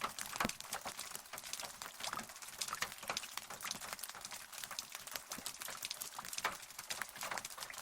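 Rain falling steadily, a dense irregular patter of close drops striking a surface, each one a sharp tick.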